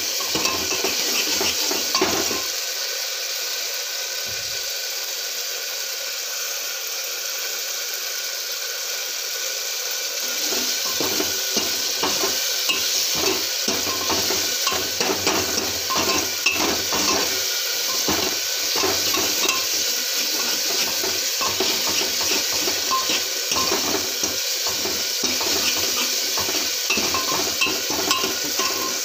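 Potatoes, capsicum and tomatoes sizzling in hot oil in a pan, with a spoon clattering and scraping against the pan as they are stirred. The stirring comes at the very start and again from about a third of the way in, with only the steady sizzle in between.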